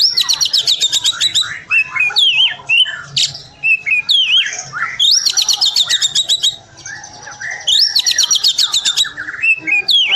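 Oriental magpie-robin (kacer) singing. It gives three bursts of rapid, evenly repeated high notes, each about a second and a half long, near the start, midway and near the end, with whistled up-and-down swoops and slurred notes between them.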